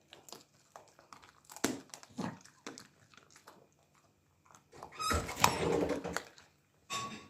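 Dog chewing and crunching on chicken, with sharp crunches scattered through the first few seconds, then a louder dog sound lasting about a second, about five seconds in.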